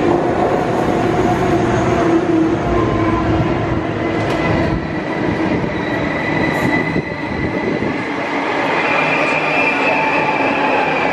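Dutch NS intercity passenger train pulling into an underground station platform: the carriages roll past with a steady loud rumble and thin, high wheel squeal that rises a little in pitch near the end.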